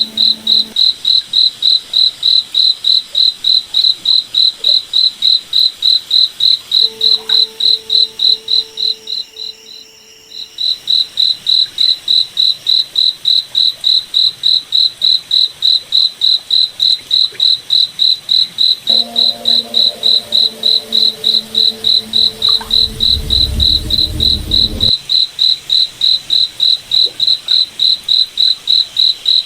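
Cricket chirping: a single high, even chirp repeating about three times a second. It fades out briefly about nine seconds in, then resumes.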